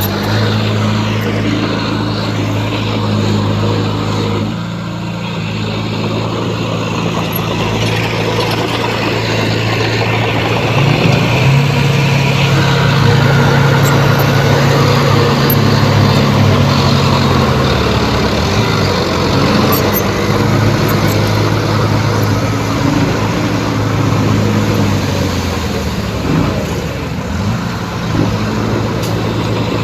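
Heavy diesel machinery running at a landfill earthmoving job: bulldozer and dump truck engines. The engine note steps up to a higher, harder-working pitch about ten seconds in and settles back down after about eighteen seconds.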